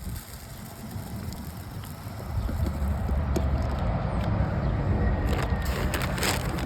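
Wind buffeting the microphone, a heavy low rumble that swells about two seconds in, with scattered crackles and rustles of handling over it.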